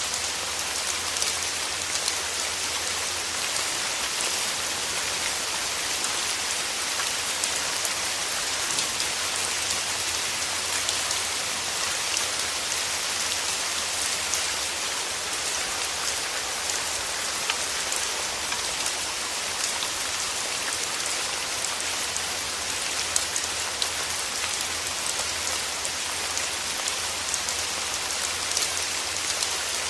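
Steady rain, a dense, even patter of many individual raindrops ticking throughout.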